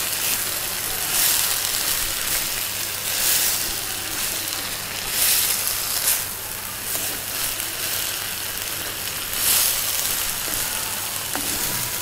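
Cauliflower and green peas sizzling in oil in an earthenware pot, with a spatula stirring and scraping through them every second or two.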